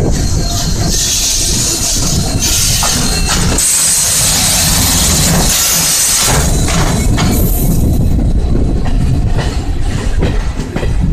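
Passenger train running, with steady wheel-and-rail rumble and a rush of air that is loudest in the first two thirds. Sharp clacks come at uneven intervals as the wheels cross rail joints.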